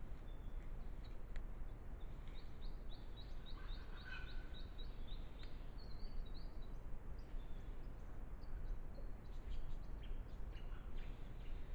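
Small bird calling: a run of short, high chirps, about three a second, over a steady low background noise, followed by a few short sharp clicks near the end.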